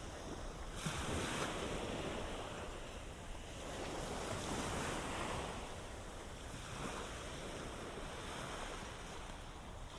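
Ocean waves washing onto the beach, with swells of surf about a second in and again around four to five seconds, and some wind on the microphone.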